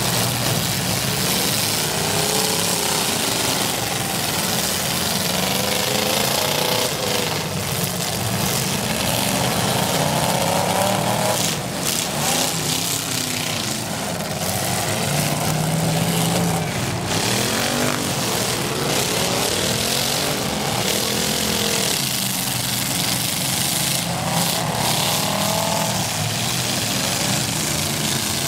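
Several demolition derby cars' V8 engines revving up and down at once, their pitches rising and falling over one another in a loud, continuous din.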